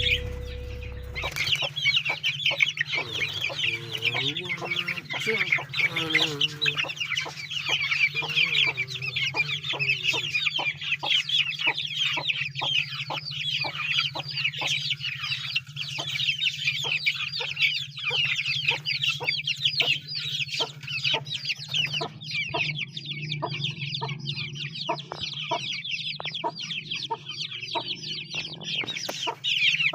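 A flock of chickens clucking, with dense, continuous high-pitched chirping and many short, sharp taps throughout. A low steady hum runs underneath.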